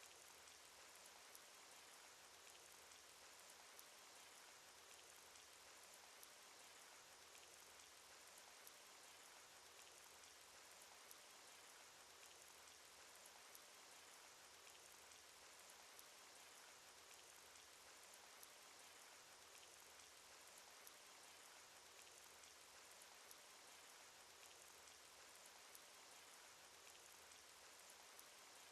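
Rain sound effect from a cartoon: faint, steady rain hiss with scattered light drop ticks.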